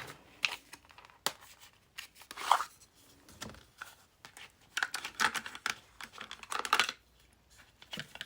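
Paper and drawing supplies being handled at a desk: irregular short rustles and scrapes of paper, with a few light clicks.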